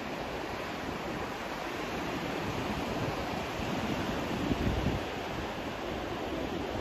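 Steady rushing white-noise track for sleep, an even hiss weighted toward the low end, swelling slightly about four and a half seconds in.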